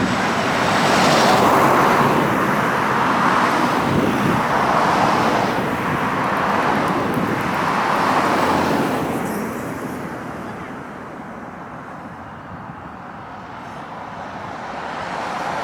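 Road traffic: several vehicles pass one after another, each a swell of tyre and engine noise. The traffic thins out about two-thirds through, then another vehicle approaches near the end.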